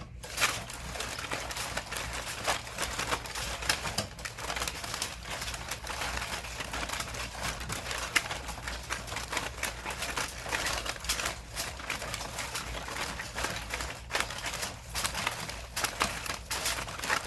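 A deck of tarot cards being shuffled by hand: a dense, continuous run of quick clicks and snaps.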